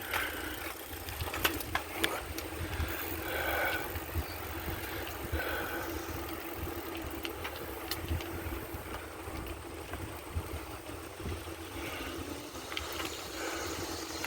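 Wind rumbling on the microphone of a phone carried on a moving bicycle, with steady rolling noise and occasional small clicks.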